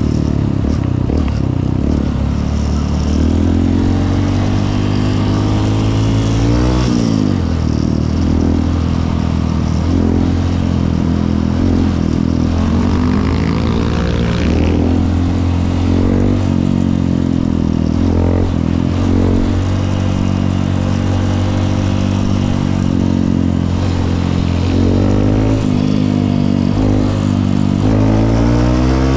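Honda CRF150L's single-cylinder four-stroke engine running under way, its revs rising and falling again and again as the rider shifts and throttles. There is a sharp drop and climb in pitch about seven seconds in.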